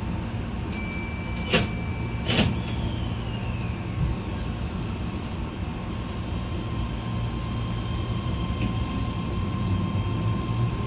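Keihan local electric train at a station: a brief electronic tone, then two sharp thuds as the doors shut, and a steady electric-motor whine comes in as the train starts moving over a continuous running rumble.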